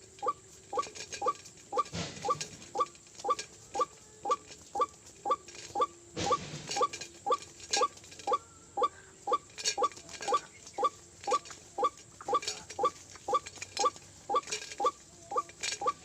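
White-breasted waterhen calling over and over, a short hoarse note repeated very evenly about twice a second.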